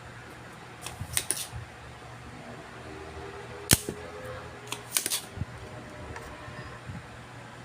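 Sharp clicks and taps of small tools being handled on an electronics repair bench: a few quick clicks about a second in, one loud single snap near the middle, then another quick cluster, over a steady low hum.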